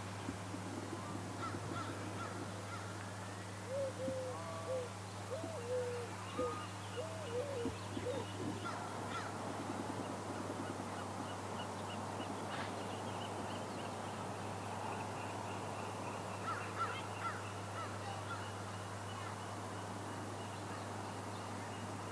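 Wild birds calling: a run of about eight short, repeated calls in the first third, then scattered faint chirps, over a steady low hum.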